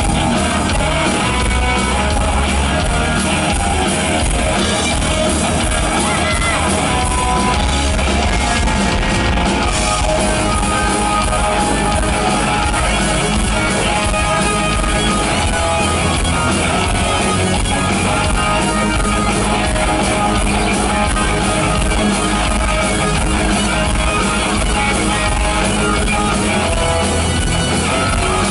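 Heavy metal band playing live, loud and steady: electric guitars, bass and drums with some singing.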